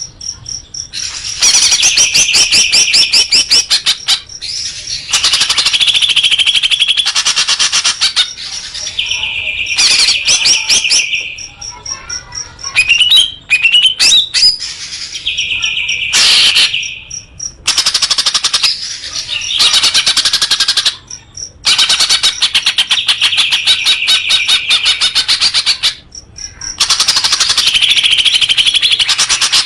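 A songbird sings loud, fast chattering phrases of rapidly repeated notes, each phrase a few seconds long, with short breaks between them. This is a masteran (song-tutor) recording played for caged birds to learn from.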